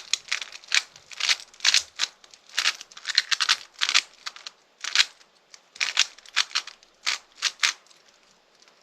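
Plastic speedcube being turned rapidly by hand, its layers clacking in quick irregular bursts of clicks, stopping about eight seconds in.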